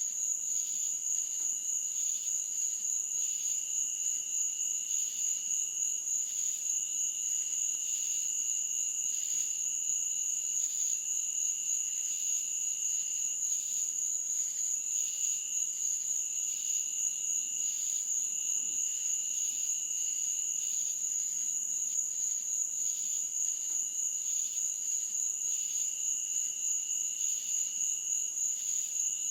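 Insects chirping in a night meadow, crickets or katydids by the sound: a steady, high, continuous trill, with a second, lower chorus that pulses rapidly and breaks off for moments now and then.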